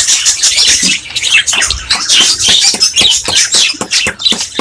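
A flock of budgerigars chattering and chirping continuously, many short overlapping calls at once.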